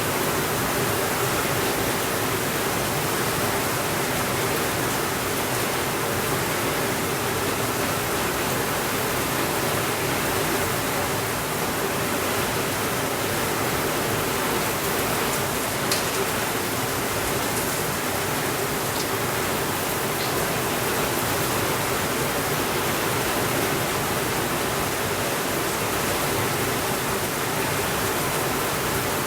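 Steady heavy rainfall, an even hiss with no thunder. A few faint sharp pops from a wood fire come through around the middle, the loudest about halfway through.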